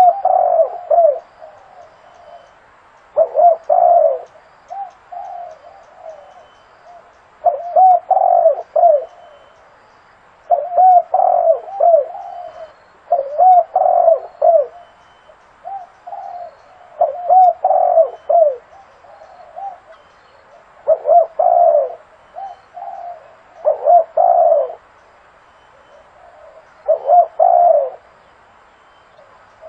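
Spotted dove cooing. Phrases of several coos repeat about every three seconds.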